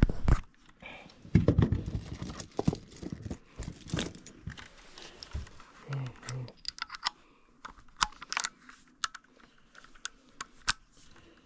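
Irregular clicks, knocks and rustling of tools and parts being handled at a furnace, with a few sharper taps in the second half.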